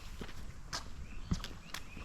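Footsteps of a person walking on a path, a handful of irregular steps.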